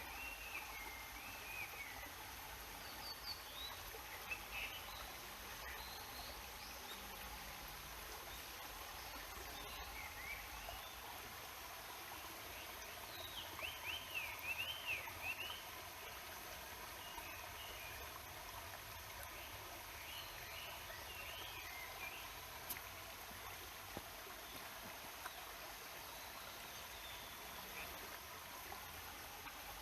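Steady babbling of a river, with small birds chirping now and then over it; a quick run of chirps about halfway through is the loudest part.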